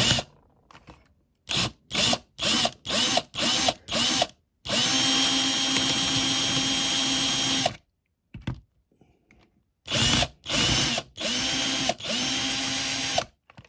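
Electric drill drilling out the rivets that hold a diecast car's base. It comes in short trigger bursts, then one long run of about three seconds, then a few more bursts and longer runs, each spinning up with a rising whine.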